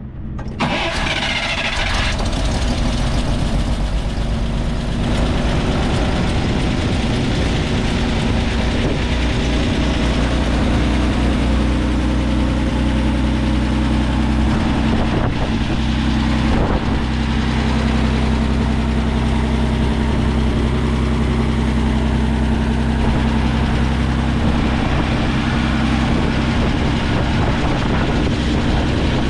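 1941 Plymouth Special Deluxe's flathead straight-six being cold-started: it catches about half a second in, runs rougher and noisier for the first couple of seconds, then settles into a steady idle.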